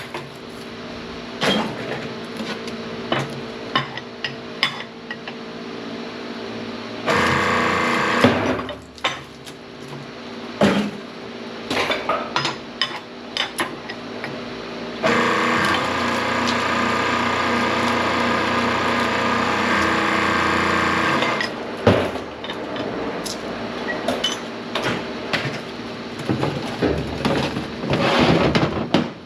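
A hydraulic scrap-processing press runs with a steady hum, and metal scrap clanks and knocks as it is handled and fed. The machine gets louder twice under load: briefly about seven seconds in, then for about six seconds from a quarter of the way through.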